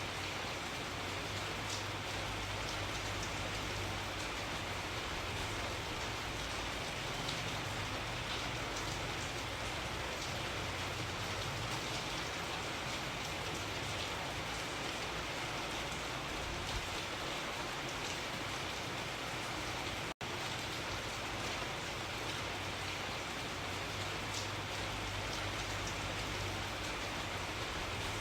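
Steady rain falling in a dense, even patter. The sound cuts out for an instant about twenty seconds in, then carries on unchanged.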